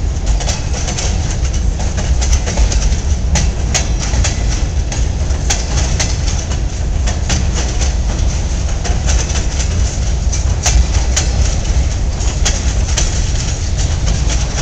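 Freight train cars rolling past at close range, with a steady low rumble and irregular sharp clacks of steel wheels over rail joints.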